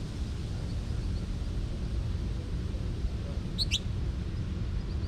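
A small songbird gives two quick, high chirps that sweep downward, about three and a half seconds in, with a few fainter high chips earlier. Under them is a steady low rumble.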